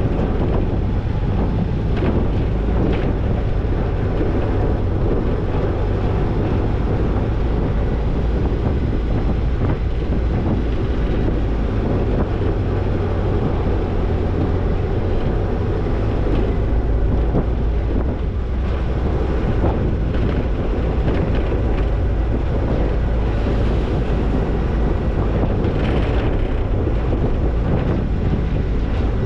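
Toyota Tercel 4WD wagon driving on a dirt trail: a steady low rumble of engine and tyres, with wind buffeting the microphone.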